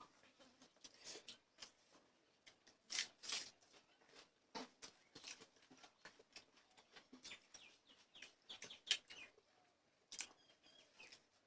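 Quiet eating noises: irregular wet smacks and clicks of chewing, with a few louder smacks about three seconds in and near nine seconds.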